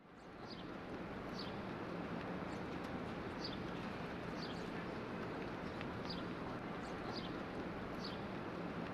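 Short, high chirps about once a second, like a bird calling, over a steady hiss-like background that fades in at the start.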